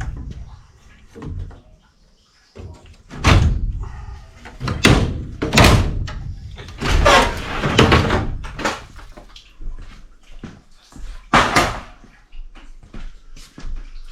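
A series of loud knocks, bangs and scrapes of metal being handled while an evaporator coil is worked out of its cabinet, about five heavy bangs with lighter rattling between them.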